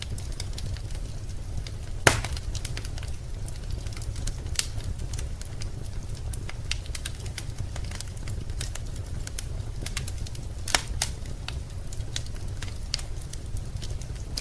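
Wood fire crackling in a fireplace: scattered snaps over a steady low rumble, with a louder pop about two seconds in and another near eleven seconds.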